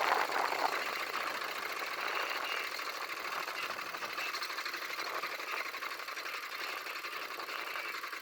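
A machine running steadily with a fast, even clatter, mostly high-pitched with little low rumble.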